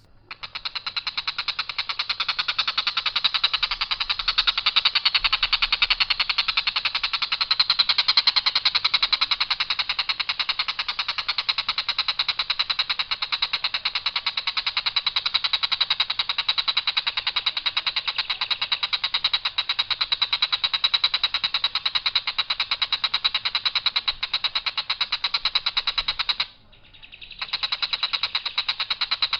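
Tengkek buto kingfisher giving its harsh, long rattling call, a very fast run of rough high notes on one unvarying pitch. It breaks off for about a second near the end, then starts again.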